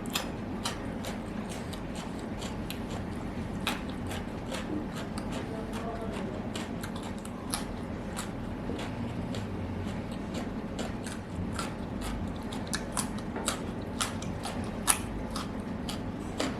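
A person chewing and biting food close to the microphone, with many small sharp clicks and crunches scattered throughout, over a steady low hum.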